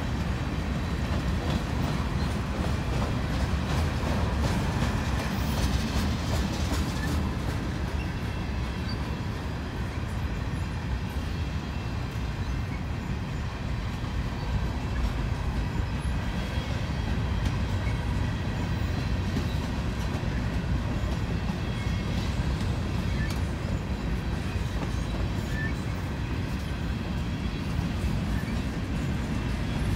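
Freight train of tank cars and covered hoppers rolling past at steady speed: a continuous low rumble of steel wheels on rail with occasional clicks.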